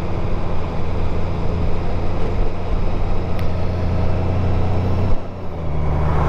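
Motorcycle engine running steadily at road speed over a constant rush of wind and road noise. About five seconds in the engine note cuts away for about half a second, then picks up again.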